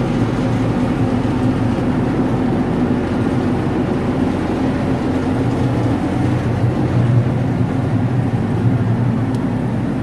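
Boat engine running steadily at an even pitch, a low, constant hum.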